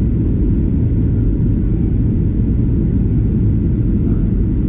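Steady low rumble of an airplane's engines and airflow, heard from inside the passenger cabin.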